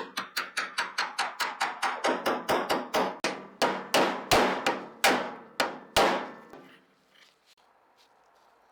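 A hammer striking in a fast series, about five blows a second at first. The blows slow and grow heavier, each ringing briefly, and stop about six seconds in.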